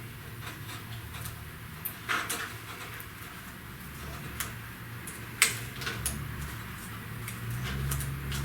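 Scattered light clicks, taps and a short scrape of hands working wires and small tools, with one sharper click about five and a half seconds in, over a steady low hum.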